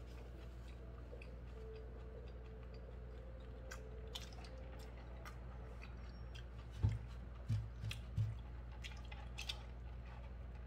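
Close-miked chewing and small mouth clicks from a man eating a burger, over a steady low hum. A few dull thumps come between about seven and eight seconds in.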